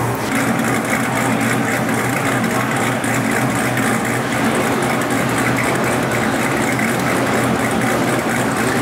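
A car engine idling steadily, a constant low drone with no revving.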